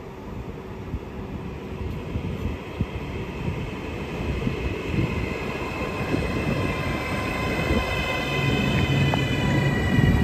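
Trenitalia Hitachi Rock double-deck electric train running in alongside the platform, its rumble growing steadily louder as it approaches. A steady high-pitched whine comes in about halfway through and strengthens toward the end.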